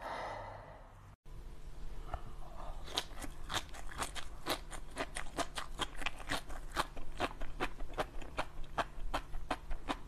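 Sea grapes being chewed close to the microphone: a quick run of crisp little pops and crunches, about three a second. It begins after a brief drop-out about a second in.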